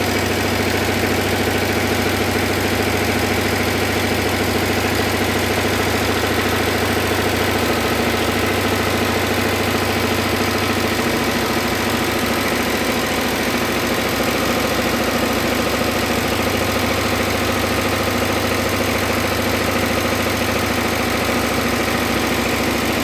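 Single-cylinder diesel engine running steadily, its low hum changing slightly about halfway through.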